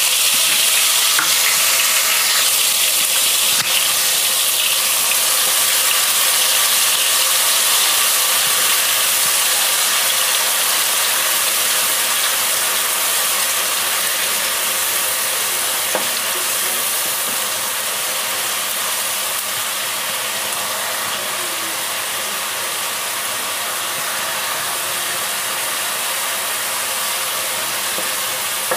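Onion, garlic and green chilli paste sizzling steadily in hot mustard oil in a kadai as it is stirred with a wooden spatula, the hiss easing off a little over time. This is the paste being fried until its raw smell goes.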